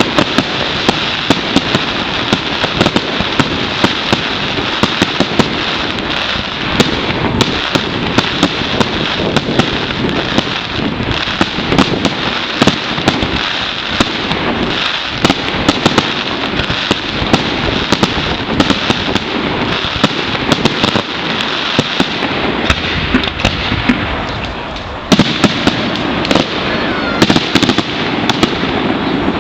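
Fireworks display going off continuously: a dense run of sharp bangs over steady crackling, with a brief lull and then a fresh loud volley a few seconds before the end.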